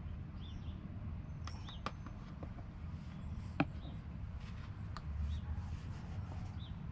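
A small bird chirps a short high note about once a second over a low steady rumble. Several sharp clicks and taps come from handling, the loudest a little past halfway.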